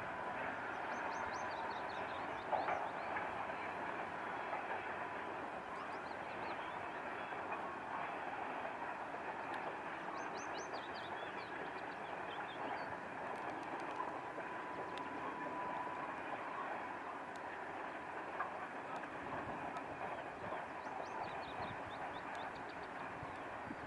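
Škoda 27E electric mine locomotive and its train running along the quarry railway, a steady rolling rail noise with a faint even hum and one short knock about two and a half seconds in. A bird chirps a few times over it.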